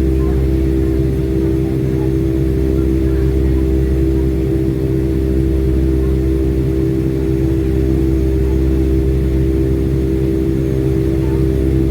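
Steady drone of a Boeing 757-200's jet engines heard inside the passenger cabin, a low rumble with a held hum of several steady tones.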